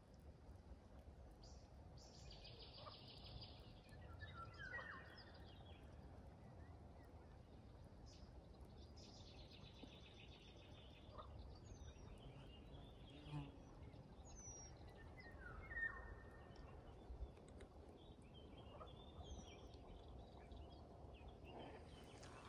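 Faint outdoor ambience with birds calling: two buzzy trills of about a second and a half each, and several short, high downward-slurred whistles.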